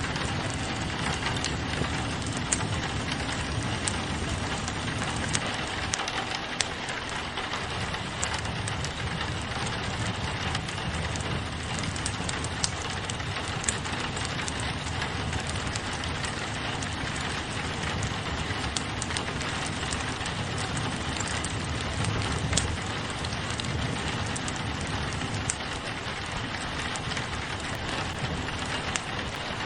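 Steady rain on a window mixed with a crackling wood fire in a fireplace, with frequent short sharp pops and clicks scattered through the rain.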